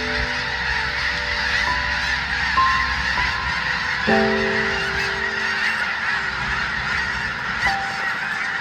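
A huge flock of geese honking together, a dense unbroken chorus of many overlapping calls.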